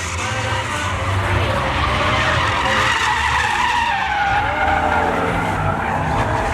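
Pickup truck doing a burnout: rear tires spinning and squealing on pavement, with the engine held at high revs. The squeal wavers in pitch over a steady engine rumble.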